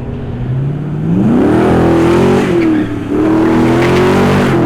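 Car engine revved hard: the pitch climbs about a second in, holds high, dips briefly midway and climbs back to hold high again.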